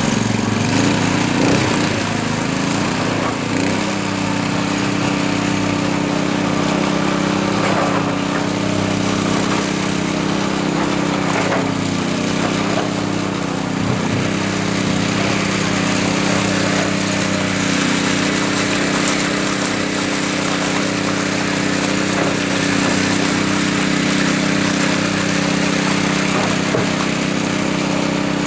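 Small engine of a concrete power trowel running steadily; its speed shifts over the first few seconds, then holds even.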